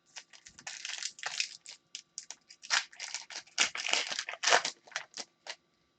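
Foil wrapper of a hockey trading-card pack crinkling and tearing as it is ripped open, in irregular crackly bursts.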